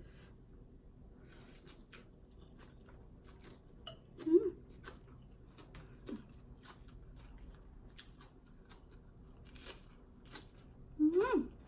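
Close-up eating sounds: chewing with small crunches and wet mouth clicks. Two short voiced sounds from the eater break in, one about four seconds in and a louder one near the end.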